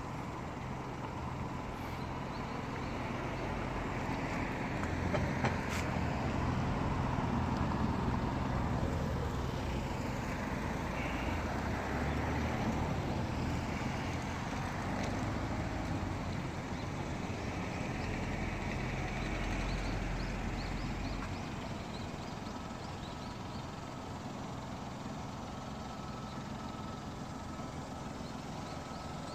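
Kia Morning's small engine idling, with road traffic passing and the overall sound growing louder for several seconds before settling.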